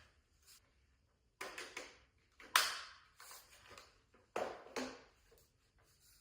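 A series of light knocks, taps and clatters from household items being handled, the loudest a little over two and a half seconds in; no vacuum motor is running.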